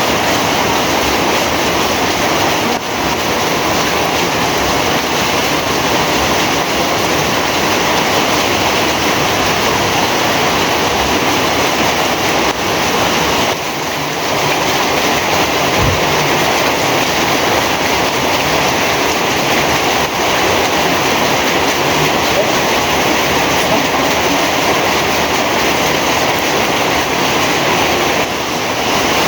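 Heavy rain falling steadily, a dense even hiss with a few brief dips in level. There is a short low thump about halfway through.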